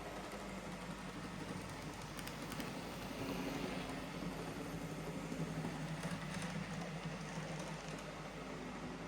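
N gauge InterCity model locomotive's replacement motor running with a steady low hum while on test after a full service. There are a few faint clicks about two seconds in and again about six seconds in.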